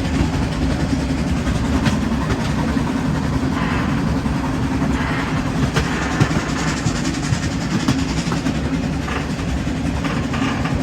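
HSB narrow-gauge 2-10-2T steam locomotive and train working up a steep grade, a steady heavy running sound with scattered wheel-on-rail clicks.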